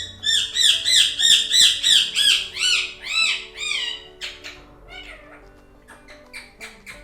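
Pet parrot calling: a rapid run of rising-and-falling whistled calls, about three a second, then after about four seconds shorter, quieter squawks.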